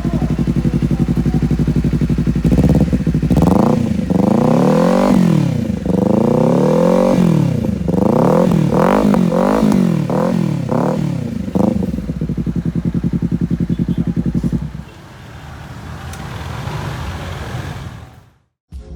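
Honda CBR250RR parallel-twin engine through a Leovince LV-10 slip-on exhaust, idling, then revved in a run of throttle blips: a few long rises and falls, then a string of quick short blips. It settles back to idle and stops about fifteen seconds in.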